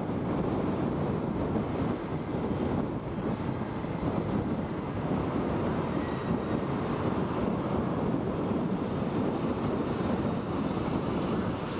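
Strong typhoon wind buffeting the microphone: a loud, steady rushing noise that rises and falls slightly.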